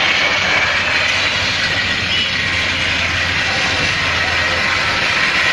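A heavy vehicle's engine running steadily under a loud, even rushing noise, with its low hum dropping away near the end.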